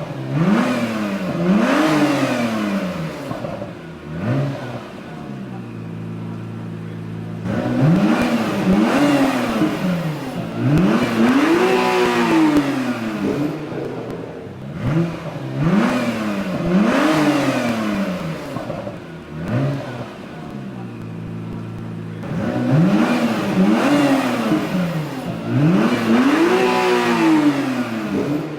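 2017 Acura NSX's twin-turbo V6 revved in short blips, each a quick rise and fall in pitch, mostly in pairs followed by a bigger, longer rev. It drops back to a steady idle twice, about five seconds in and again around twenty seconds in.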